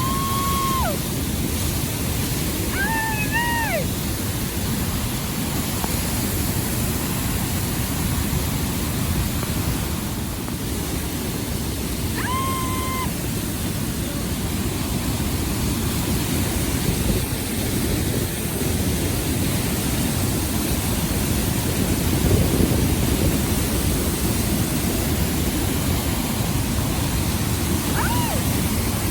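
Steady roar of falling water from Niagara Falls, with four short, high bird calls over it that drop in pitch at the end.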